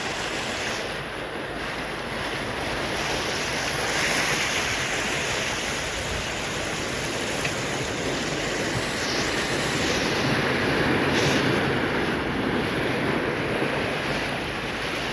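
Heavy sea swell surging and breaking on the shore in a continuous wash of surf, swelling louder about four seconds in and again near the two-thirds mark.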